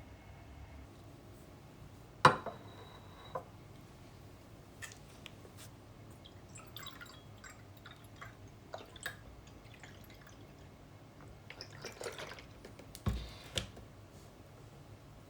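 Scattered small clicks and light clinks of hard objects being handled. The loudest is a sharp click about two seconds in, and a short cluster of taps comes near the end.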